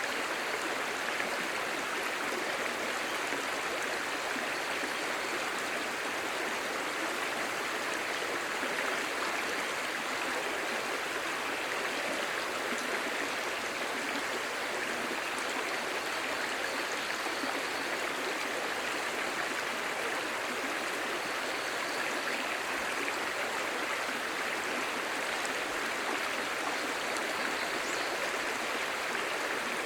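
Clear, shallow stream babbling and gurgling over stones: a steady, even rush of flowing water.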